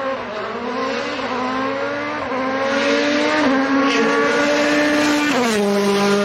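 Rally car engine at high revs, its pitch climbing slowly for about five seconds and then dropping sharply and holding lower, with a hiss of tyres over it.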